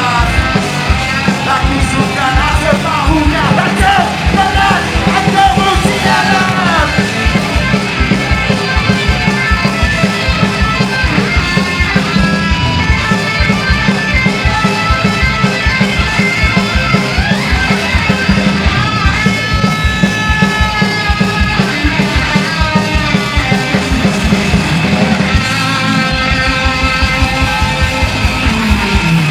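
Live punk rock band playing: distorted electric guitars, bass and fast drums, with shouted vocals over them.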